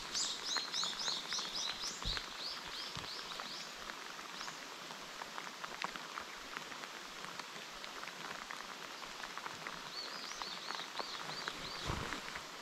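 Heavy rain falling on the water and the boat: a steady hiss with scattered drop taps. Twice, a bird calls in quick runs of high, repeated chirps.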